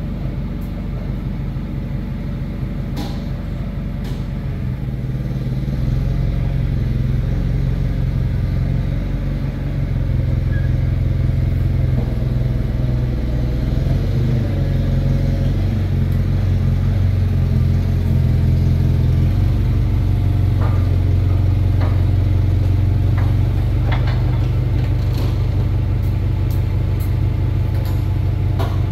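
An engine running steadily and building somewhat in level over the first several seconds, with a few light metallic clanks, while a thick steel plate is loaded onto the plasma table.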